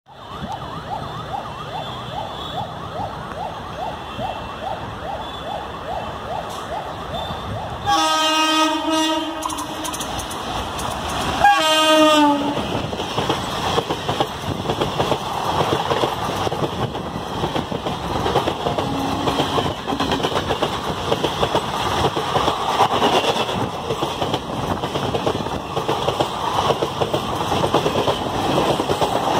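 WAP-4 electric locomotive hauling a passenger express: the rumble of the approaching train, then two horn blasts, a long one about eight seconds in and a shorter, louder one about four seconds later. After that the coaches rush past close by, with a steady noise of wheels rattling over the rails.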